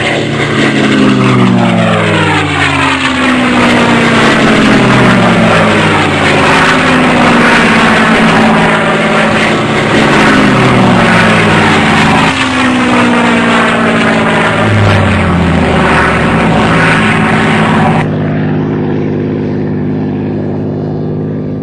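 Propeller-driven model warbirds flying past again and again, the engine pitch falling with each pass. About 18 seconds in the higher part of the sound stops suddenly, leaving a steadier, lower engine drone.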